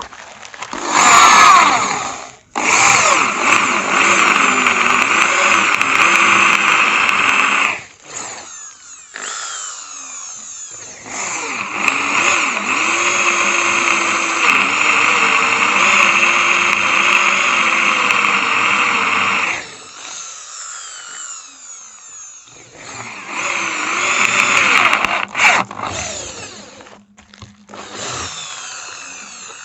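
Electric drill running in several long bursts, with a short rising spin-up about a second in, then three sustained runs separated by quieter pauses.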